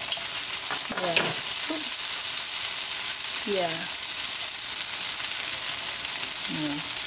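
Vegetables and pre-boiled lo mein noodles sizzling in hot olive oil in a wok over high heat, a steady frying hiss as the noodles are tipped in from a bowl.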